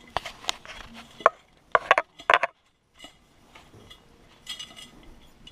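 Loose metal spokes clicking and clinking against each other and the hub as a motorcycle wheel hub is turned by hand during lacing, in a scatter of short clicks with a quick cluster about two seconds in.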